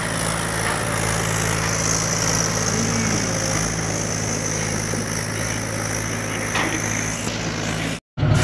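Tractor diesel engine running steadily at a constant speed, with an even, unchanging pitch. The sound cuts out completely for a moment about 8 seconds in.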